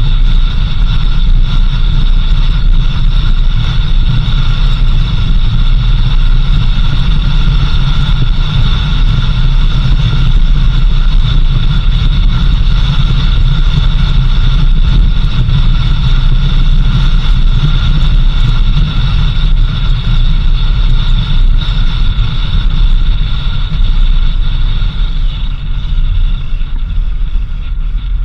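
A four-wheel-drive vehicle driving on a dirt road: a steady low engine and road rumble with a constant high whine over it, easing slightly near the end.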